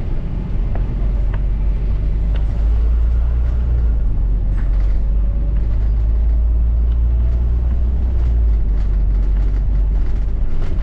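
Double-decker bus running, heard from on board: a steady low engine and road rumble that grows heavier for several seconds in the middle, with faint rattles from the bus body.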